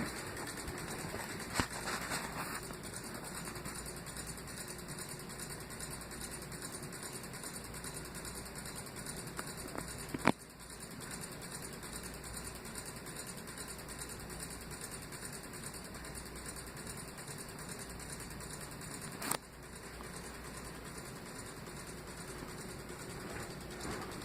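52-inch Harbor Breeze Armitage ceiling fan running with a steady whoosh. Two sharp clicks come about ten and nineteen seconds in, each followed by a brief dip in level.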